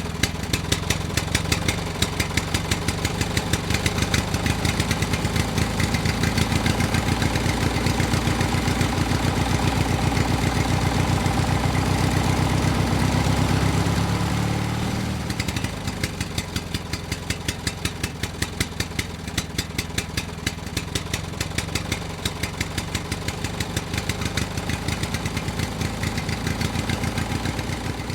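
Engine of a homemade mini tractor running with a steady, rapid beat of firing pulses, swelling louder up to about halfway through, then dropping back to a lower level and running on.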